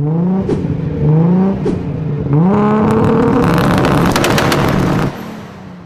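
Car engine being revved: two short blips of the throttle, then a longer rev that climbs and holds high with a spell of sharp crackles. It drops back about five seconds in.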